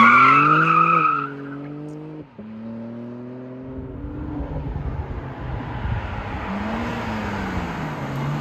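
BMW M3 Competition's straight-six engine accelerating hard, its pitch rising, with a brief break a little past two seconds as it shifts gear before the revs climb again. After that it settles into a steady rush of tyre and road noise.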